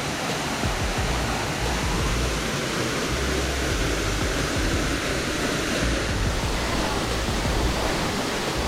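Steady rushing roar of a tall waterfall, Agbalala Falls, pouring at a constant level.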